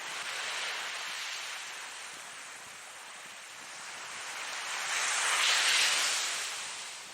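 Ocean waves washing onto a shore, the surf swelling in two rushes, the second and louder one breaking about five seconds in and then draining away.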